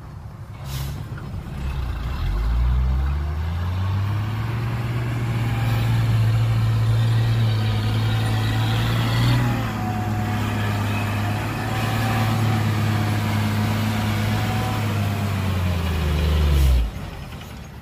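Heavy diesel dump truck engine revving up over about three seconds and held at steady high revs, then dropping away and cutting off abruptly near the end.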